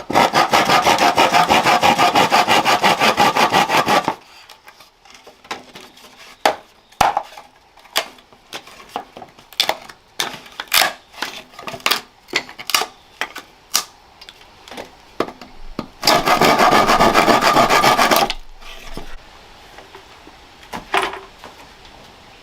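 Wood being sawn by hand: a run of rapid sawing strokes for about four seconds at the start and another for about two seconds near the end, with scattered sharp knocks and clicks of wood in between.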